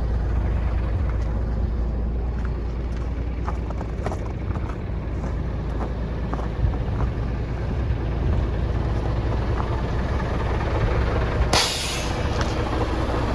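A Cat diesel engine in a 1998 Ford Louisville truck idling steadily. About twelve seconds in comes one short, loud hiss of compressed air being let out of the truck's air system.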